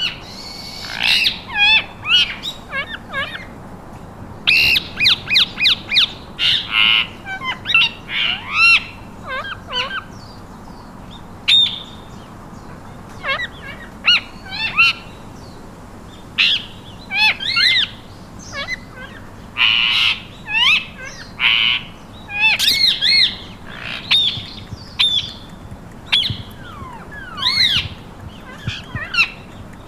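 Pet parakeets calling in quick bursts of squawks and chirps, each short call sweeping up and down in pitch, with brief gaps between clusters.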